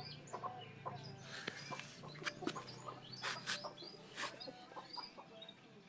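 Chickens clucking, with scattered short chirps and a few sharp clicks or knocks.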